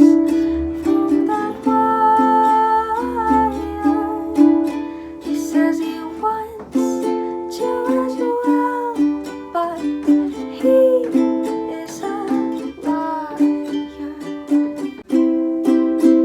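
Ukulele strummed through a chord progression, the chords changing every second or two.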